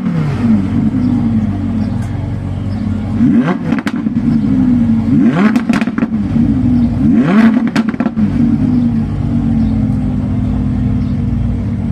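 Audi R8's 5.2-litre V10 engine revving, its pitch rising sharply and falling back again and again, with three hard blips about three and a half, five and a half and seven and a half seconds in.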